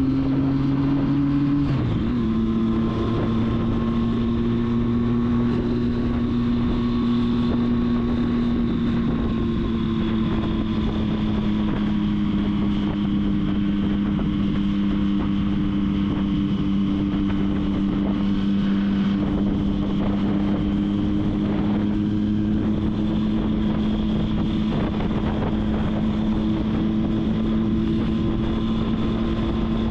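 Triumph Street Triple's inline three-cylinder engine running under way, with wind rushing over the microphone. The engine note climbs, drops sharply about two seconds in as it shifts up a gear, then holds a steady cruising pitch that eases slightly lower about ten seconds in.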